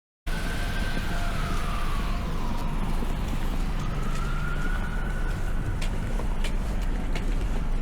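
Emergency-vehicle siren in a slow wail, falling in pitch over the first couple of seconds and rising again about halfway through, over a steady rumble of city traffic.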